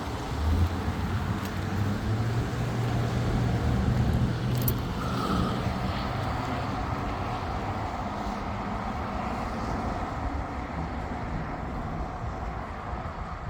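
A vehicle engine running steadily under way, with a low hum over road and wind noise.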